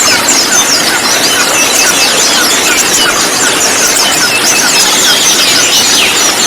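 A dense flock chorus of ruby-cheeked sunbirds (konin), many birds chirping and twittering at once in short, high, overlapping calls over a steady hiss.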